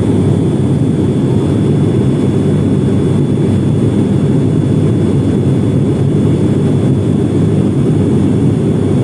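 Steady in-flight cabin noise of a Wings Air turboprop airliner: a constant low engine and propeller drone mixed with airflow, with a faint high whine above it, unchanging throughout.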